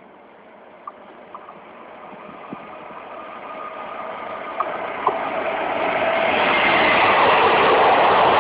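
SNCF train approaching along the line, its running and wheel-on-rail noise growing steadily louder, with a faint whine and a few sharp clicks and squeaks from the rails.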